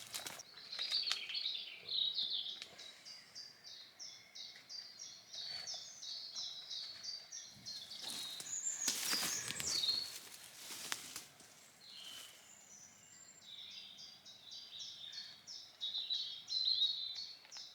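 A small songbird singing long phrases of fast, rapidly repeated high notes, with a short break about ten seconds in. A few rustles and knocks of handling cord and tarp come in the middle.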